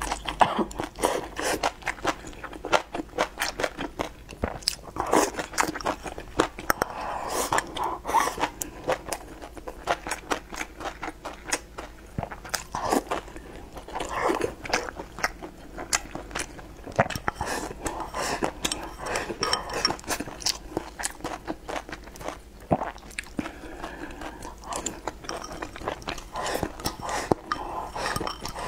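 A person eating rice, braised pork belly and stir-fried greens with egg with chopsticks, close to the microphone: continual chewing and biting with many sharp clicks and wet mouth sounds.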